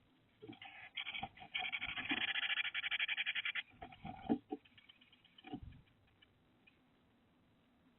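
Bird activity inside a wooden nest box: a fast run of scratchy, rattling pulses, about ten a second for roughly two seconds, followed by a few soft thumps as the bird moves about.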